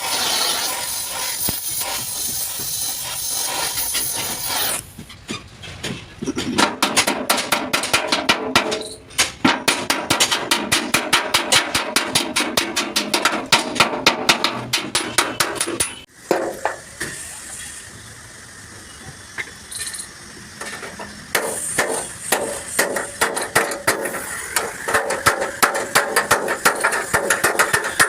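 Hammer blows on truck cab sheet metal during dent repair: fast, regular strikes, several a second, in two long runs separated by a quieter pause. A steady hissing noise is heard in the first few seconds.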